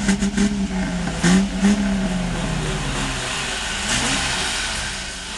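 Car engine being revved in short blips, then dropping back toward idle, with a smaller blip near the end.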